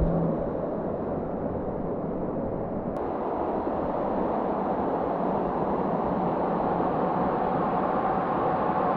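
Steady rush of creek water flowing over rocks, an even hiss that grows a little fuller and louder after about three seconds.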